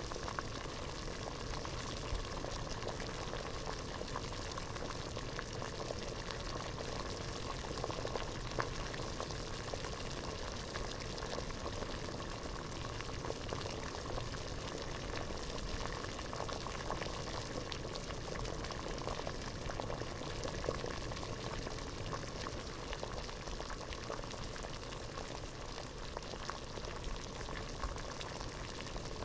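Water boiling hard in a pot, a steady dense bubbling with many small pops and crackles throughout.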